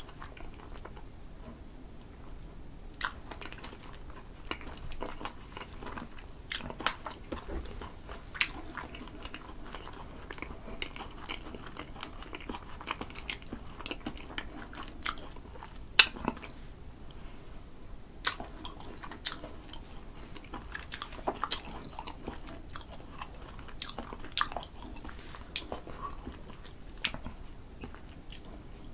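Close-miked chewing of spicy grilled sea eel, with wet mouth clicks and smacks at an irregular pace; one smack about halfway through is the loudest.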